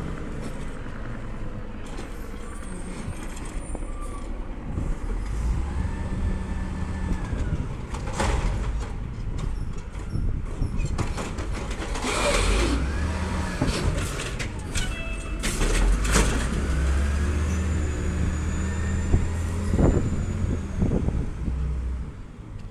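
Garbage truck working its route: the engine runs and revs up and down, with a rising and falling hydraulic whine and several sharp clanks and bangs in the middle stretch.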